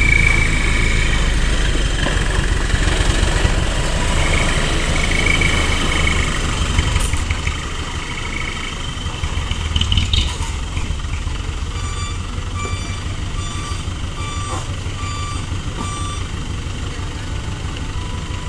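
Hino Dutro truck's diesel engine running, heavily loaded with sand, louder for the first several seconds. Later a reversing alarm beeps about seven times, roughly one beep every two-thirds of a second.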